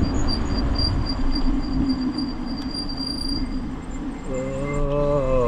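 Wind and road rumble from a bicycle rolling downhill. A high chirp pulses about four times a second through the first half, and a wavering pitched tone comes in near the end.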